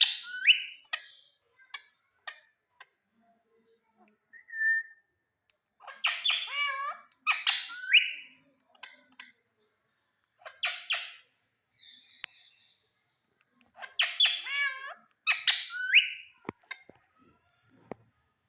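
Indian ringneck parakeet giving loud, harsh squawking calls in short bouts of two or three calls, with quiet gaps between.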